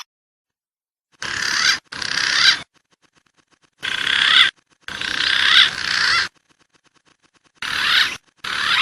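Recorded bird-lure track of wild birdsong, likely punai (green pigeon) whistling. The loud warbling whistles come in six bursts that start and stop abruptly, with dead silence between them, as in an edited loop.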